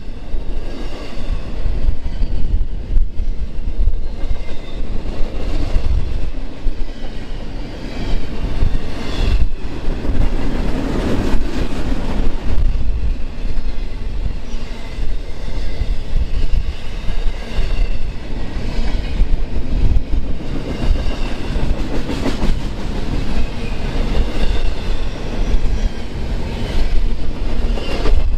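A train passing close by: a steady heavy rumble of wheels on the rails with a clattering rhythm and faint high ringing from the wheels.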